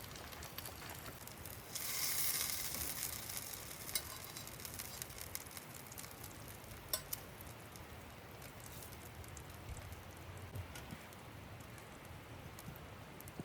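Food sizzling on a grill over a campfire, with scattered sharp crackles; the sizzle swells louder for about two seconds a couple of seconds in.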